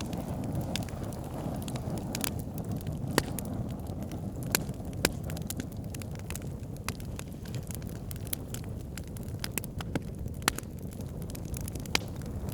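Wood campfire burning, with a steady low rush of flame and frequent sharp crackles and pops, a few louder snaps among them.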